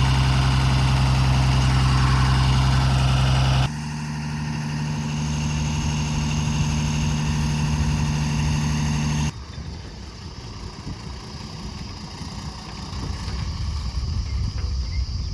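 Tata truck's diesel engine idling, heard in edited pieces: a loud steady low idle, then a cut about four seconds in to a steady higher engine note, then another cut after about nine seconds to a quieter, rougher rumble.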